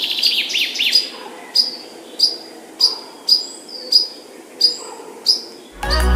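A songbird calling: a quick run of falling notes, then a steady series of short, sharp, high chirps about one every half second. Music comes in right at the end.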